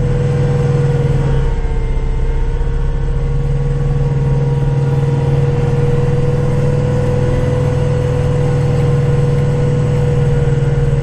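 Kubota tractor's diesel engine running steadily under load with the PTO-driven snowblower engaged. A steady whine sits above the engine drone.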